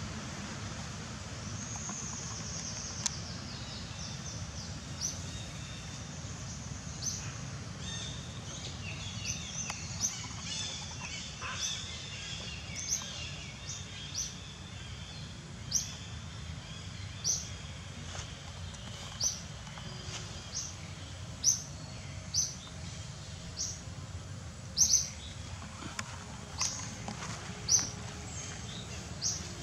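A bird giving short, high chirps over and over, about one every second or two, over a steady low background rumble.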